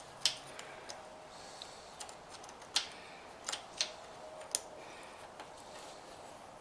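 Scattered light clicks and taps as small tools and engine parts are handled, about half a dozen, irregularly spaced.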